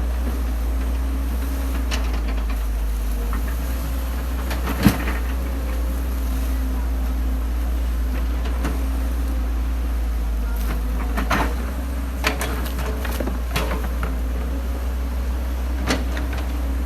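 Excavator diesel engine running steadily with a low drone and hum, with scattered sharp knocks and clanks from the working machine, the loudest about five seconds in and a cluster later on.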